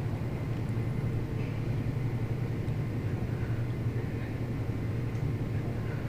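Steady low rumble with a faint hiss underneath, unchanging throughout.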